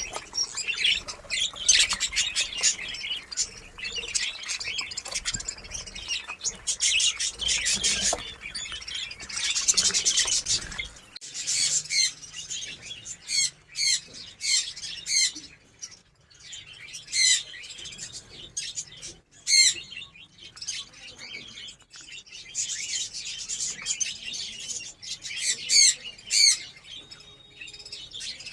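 A colony of budgerigars chattering, with many overlapping chirps and warbles at first, then separate sharp squawks and chirps from single birds.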